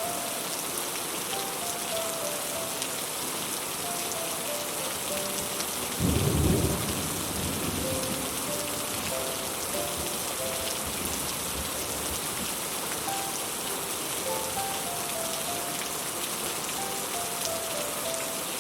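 Heavy rain falling steadily on a roof, with one loud low roll of thunder about six seconds in that fades over a second or two. A soft melody of single sustained notes plays faintly over it.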